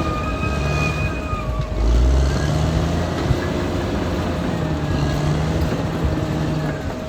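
Caterpillar D6R XL bulldozer's diesel engine running under working load, its rumble swelling and easing, with a high whine that drops in pitch about one and a half seconds in.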